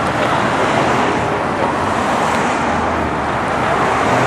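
Steady city street traffic noise, cars driving along the road.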